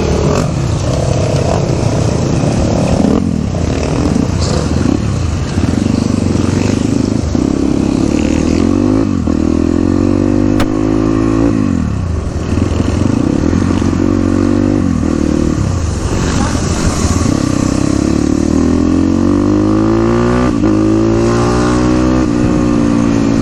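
Dirt bike engine accelerating while riding, its pitch climbing and then dropping back again and again as it shifts through the gears.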